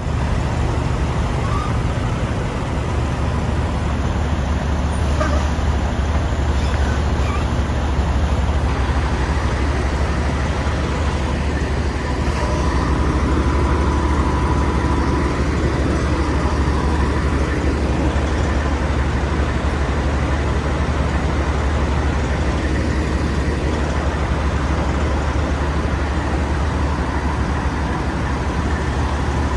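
Semi truck running, a steady low drone of engine and road noise throughout.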